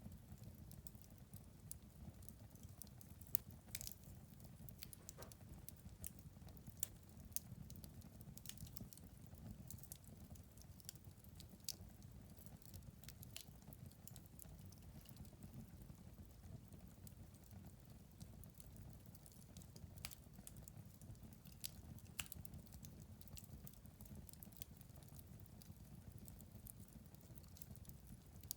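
Wood fire burning in a fireplace, crackling with irregular sharp pops over a faint low rumble.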